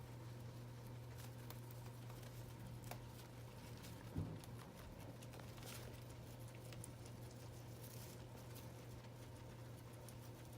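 Guinea pigs eating hay: faint, scattered crunching and rustling over a steady low hum, with one soft thump about four seconds in.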